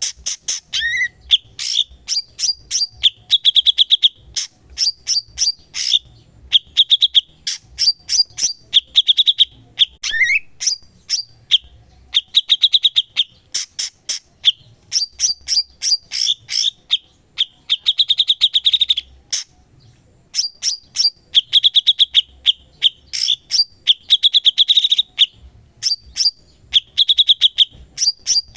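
Cucak cungkok singing continuously in full song: rapid runs of sharp, high chips, buzzy trills and now and then a short rising whistle, broken by brief pauses.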